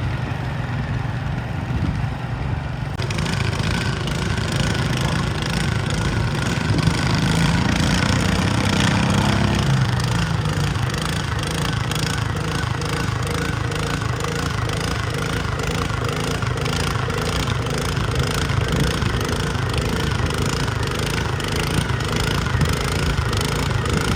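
Garden tractor engine running hard under load, pulling the sled. Its pitch climbs from about six seconds in and drops back sharply near ten seconds, and then it runs on at a steady, rapid beat.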